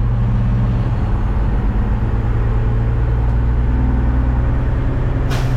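Front-loader garbage truck's engine running steadily as the truck pulls in toward a dumpster, with one sharp click about five seconds in.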